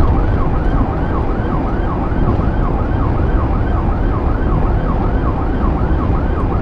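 Police car siren in a fast yelp, rising and falling about three times a second, over loud engine and road noise from the pursuing cruiser.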